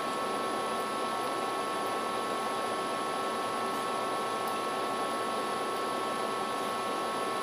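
Steady background hiss at an even level, with a few faint constant high tones running through it.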